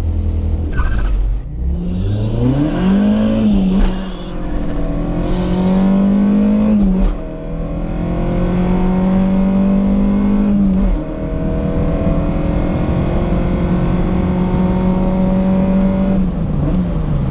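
Mk1 Volkswagen Golf four-cylinder engine heard from inside the car, accelerating hard from the line on a drag run. It revs high, with quick breaks for upshifts about 4, 7 and 11 seconds in, and eases off near the end.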